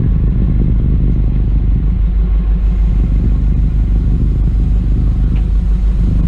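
Truck running with a steady, loud low rumble of engine and road noise.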